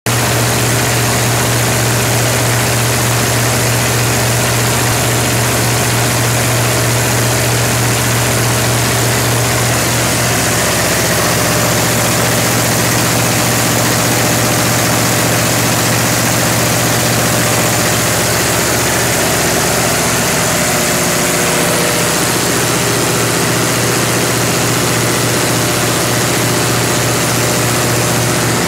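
Generac 45 kW natural-gas generator set running steadily: a loud, even engine drone with a strong low hum and no change in speed.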